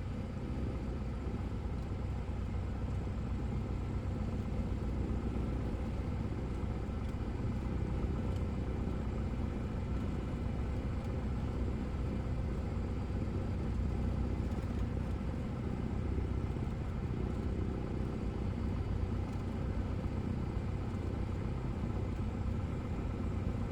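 Cessna 172S's four-cylinder Lycoming engine running steadily at low taxi power, heard from inside the cockpit as an even, low drone.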